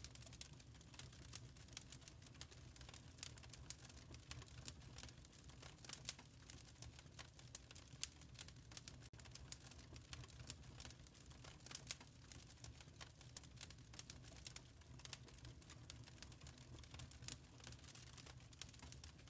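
Wood fire crackling faintly in a fireplace: irregular sharp pops and ticks over a low, steady rumble.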